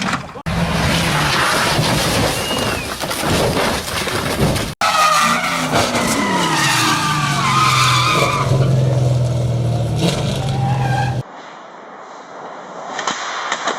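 Car dashcam audio in several abruptly cut clips: road and tyre noise, with a car's tyres skidding and squealing over a steady engine note in the middle stretch. Near the end it drops to a quieter, muffled recording.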